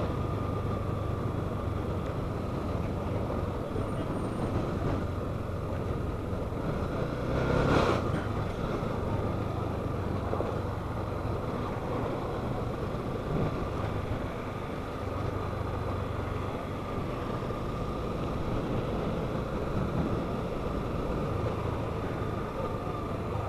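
Motorcycle riding in city traffic: a steady low engine hum under continuous road and wind noise, with one louder passing swell about eight seconds in.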